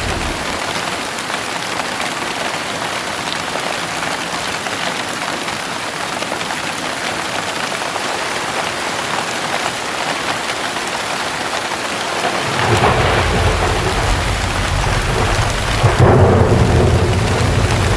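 Heavy rain falling steadily in a dense hiss. Thunder rolls in as a deep rumble about two-thirds of the way through and grows louder near the end.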